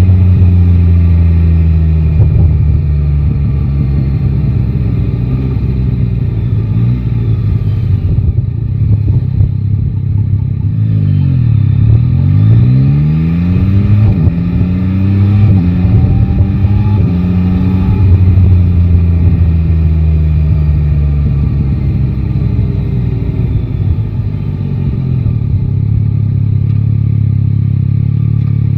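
Yamaha Tracer 9 GT's inline three-cylinder engine running under way. It cruises steadily at first, then the revs drop about eleven seconds in and climb again in several steps through the gears. After that they ease off and settle into a low, steady hum near the end.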